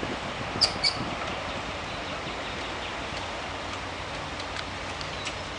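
Two short, high bird chirps under a second in, over a steady haze of wind and river-water noise.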